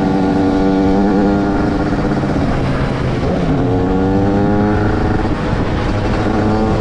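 Motorcycle engine running at steady revs. The revs fall away about three seconds in, then climb again and hold.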